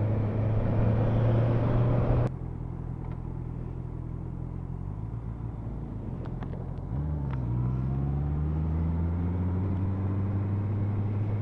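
Motorcycle engine heard from on board, running steadily under a rushing noise that cuts off suddenly about two seconds in; about seven seconds in the engine note jumps and then climbs slowly as the bike accelerates.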